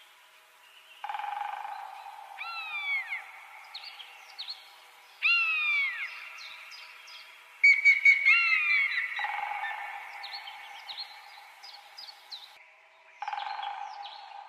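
Birds calling: many short chirps and several arching whistles that fall in pitch, over a steady high hum that starts and stops a few times.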